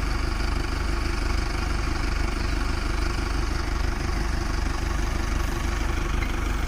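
Mahindra farm tractor diesel engine running steadily, a low even pulse with no change in speed.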